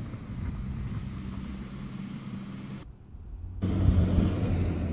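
Car driving, a steady low engine and road rumble. It breaks off for a moment about three seconds in, then comes back louder.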